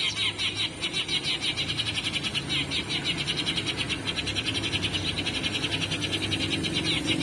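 Eurasian tree sparrows chirping: a dense, rapid run of short, high chirps, many a second, without a break.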